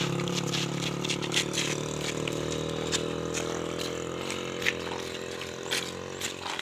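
A vehicle engine running steadily and slowly fading away, with scattered light clicks over it.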